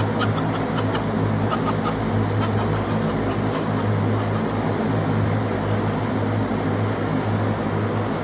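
Silkie bantam chicks peeping, a scatter of short high chirps that thin out after the first few seconds. Under them runs a steady low mechanical hum.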